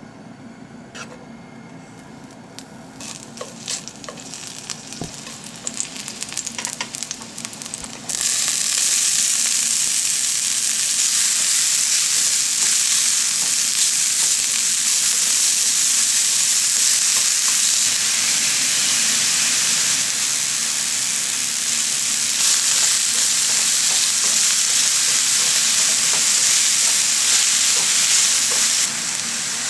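Olive oil heating in an iron frying pan, giving scattered light crackles. About eight seconds in it breaks suddenly into a loud, steady sizzle as broccoli fries in the oil and is tossed with wooden chopsticks.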